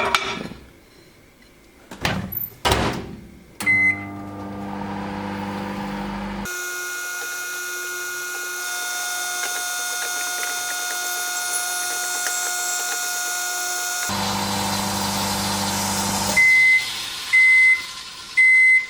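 Microwave oven in use: a few knocks and clicks as it is closed and set, a single keypad beep as it starts, the steady hum of it running, then its end-of-cycle beeps, three evenly spaced short high beeps near the end.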